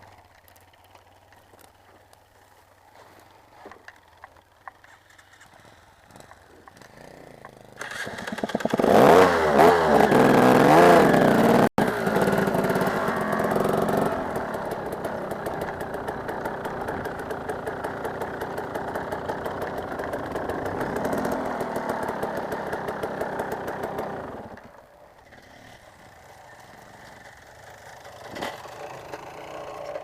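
Motocross bike engine starting about a quarter of the way in and revved hard a few times, then running steadily before dropping away abruptly about three quarters of the way through.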